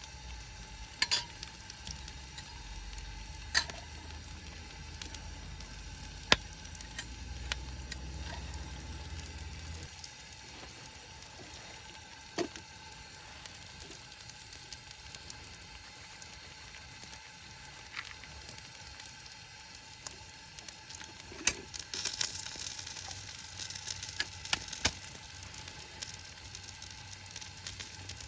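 Food sizzling as it fries in a pan, with occasional sharp taps and clicks of a utensil. A low hum stops about ten seconds in, and the sizzling grows louder for a few seconds near the end.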